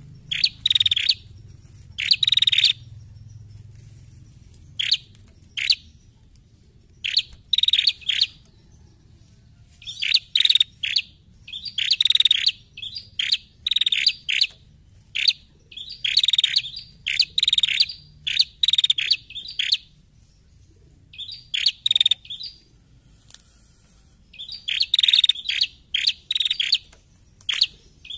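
Female prenjak calling: clusters of sharp, rapid chirps, several in quick succession per burst, separated by brief pauses.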